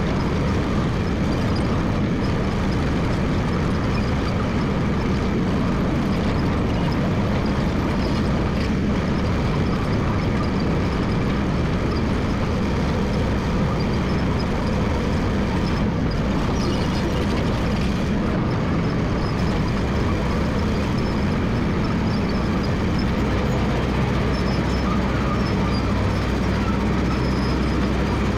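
Massey Ferguson MF 300 crawler dozer running steadily while working, a continuous engine-and-machine din without let-up.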